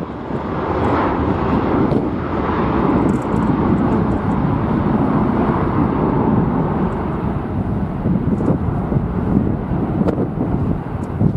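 Jet airliner engine noise, a steady rushing roar, mixed with strong wind buffeting the microphone.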